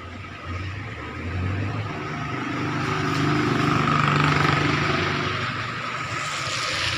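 Vehicle engine running through an exhaust muffler under test. Its sound swells to a peak about four seconds in, with the engine note rising, then eases off.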